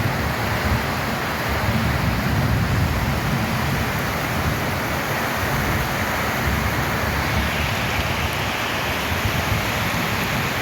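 Rain falling steadily on a corrugated tin roof, a dense even patter, with a low rumble underneath that swells and fades.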